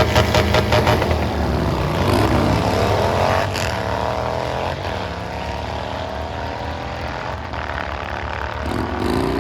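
Drag-racing engines at full throttle pulling away down the strip, loud, with the engine pitch climbing and sliding in rising sweeps.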